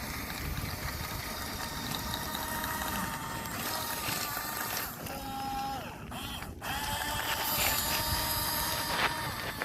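Electric motors and gearboxes of a radio-controlled Huina excavator whining in short spurts as it works, each spurt a steady whine that starts and stops, over a running gritty clatter.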